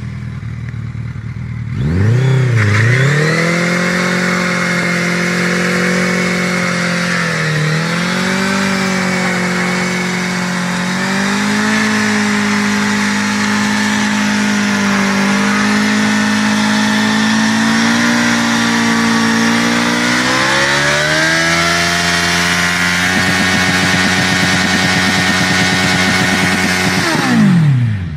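Motorcycle engine at high revs: after about two seconds it comes in and quickly climbs to a high, steady note. It holds there with a brief dip, climbs again, and near the end the pitch falls steeply and cuts off.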